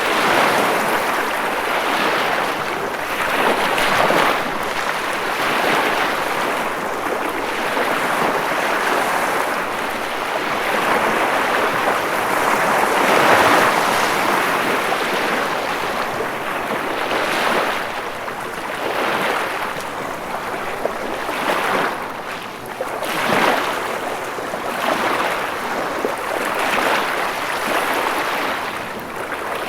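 Ocean waves breaking and washing in surf, a steady rushing that swells and eases every few seconds, with the biggest swell about halfway through.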